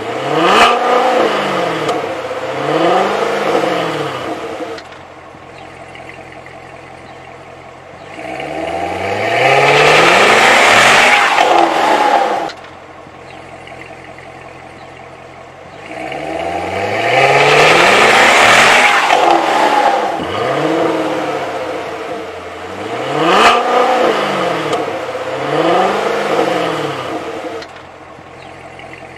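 Car engine being revved repeatedly from idle: several short throttle blips that rise and fall, two long high revs held for a few seconds, each dropping back abruptly to a steady idle.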